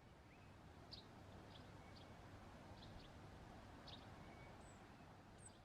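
Faint outdoor ambience with short, high bird chirps at irregular intervals over a low steady background hum.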